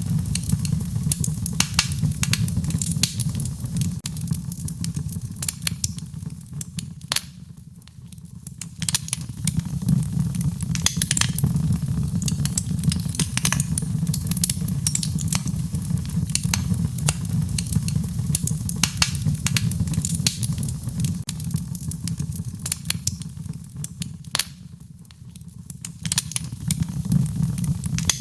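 Fireplace fire crackling, with frequent sharp pops and snaps over a steady low rumble. The rumble briefly fades out twice, about a third of the way in and near the end.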